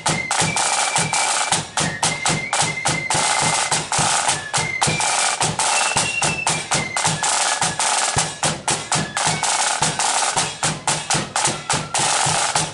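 Marching flute band's drum section playing: rapid snare drum strokes and rolls over steady bass drum beats, with faint high held flute notes above. The drumming stops abruptly at the very end.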